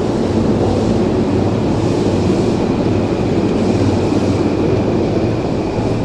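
Steady rumble and hum of train and station noise on the platform beside a stopped JR E233-1000 series train with its doors open, with a faint steady high whine.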